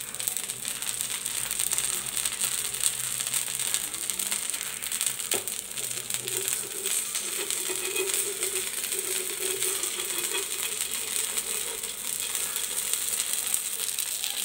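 Moong-dal and vegetable batter roti frying on a flat nonstick pan over a low gas flame: a steady sizzle with fine crackling, and one light knock about five seconds in.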